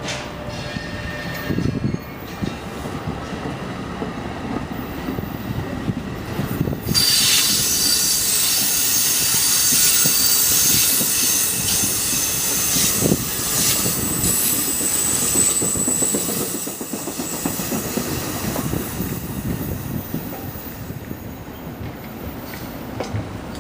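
A train passing close by, its wheels squealing on the rails from about seven seconds in, with clacking over the rail joints; the sound fades toward the end.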